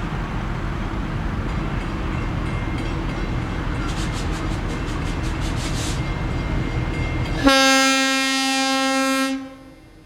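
Diesel freight locomotive running past with a steady low rumble and a quick run of clicking around the middle. Near the end it sounds its horn once, a loud steady blast about two seconds long.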